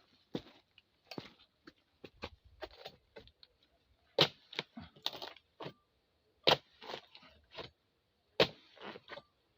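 Harvesting blade chopping into tough oil palm frond stalks. The fronds have gone hard from years without upkeep. It makes a series of sharp cracking strikes, the three loudest about two seconds apart from about four seconds in, with smaller cracks and rustling between.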